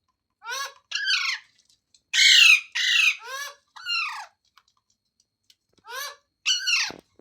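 Green ringneck parrot giving a series of short, harsh squawks, about eight calls in two bursts with a pause of over a second between them.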